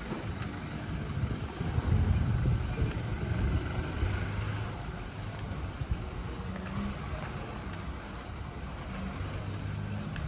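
Street ambience dominated by a motor vehicle's engine running nearby. Its low rumble is loudest about two to four seconds in, and a steadier engine hum comes in near the end.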